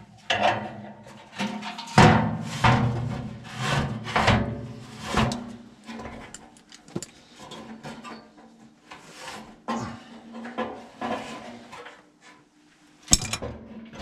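Metal parts and hand tools clattering, knocking and scraping in irregular strokes as a furnace blower's motor-mount bracket is worked on, with a sharp click near the end.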